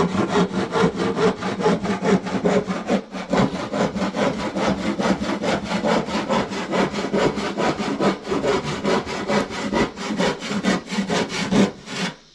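Handsaw cutting through wood with quick, regular back-and-forth strokes, about four to five a second, stopping near the end.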